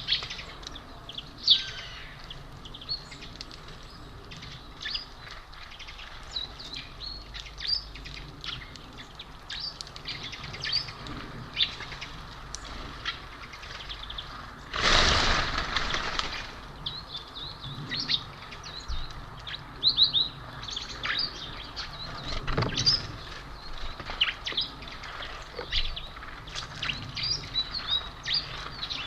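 Small birds at a feeder chirping with many short, high calls throughout. About halfway through there is a loud rushing noise lasting about a second and a half, and a smaller one a few seconds later.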